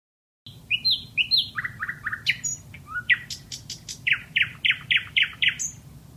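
Nightingale singing: a varied phrase of clear downslurred notes, then a rapid run of repeated notes, ending with a series of about seven loud descending notes in a row. It starts abruptly about half a second in, over a low background rumble.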